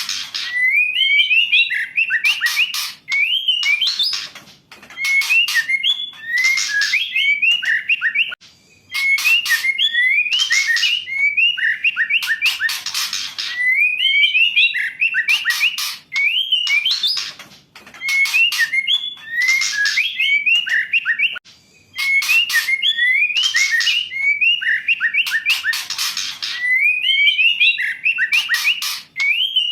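Female white-rumped shama singing: repeated phrases of quick whistled notes sliding up and down, mixed with harsh rattling chatter, each phrase a few seconds long with short pauses between.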